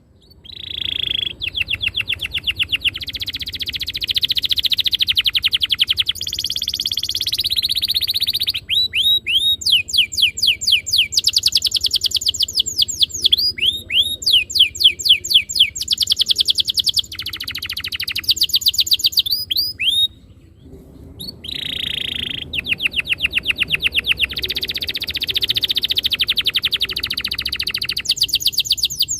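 Domestic canary singing a long, loud song of rapid rolling trills, with phrases of quickly repeated notes that change from one phrase to the next. There is a brief pause about two-thirds of the way through.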